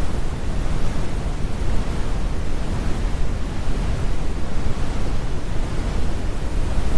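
Steady brown noise: a deep, even rumble with the most energy at the bottom and the highs rolled off, with no tones or events.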